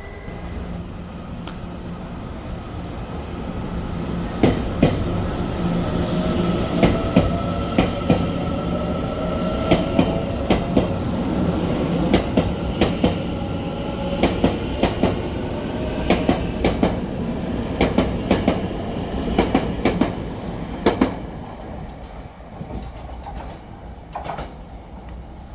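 A Taiwan Railways train running past on the platform track, its wheels clacking over the rail joints in quick pairs, one pair after another. Under the clacks there is a steady hum and a slowly rising whine. The sound builds, then fades near the end as the train moves off.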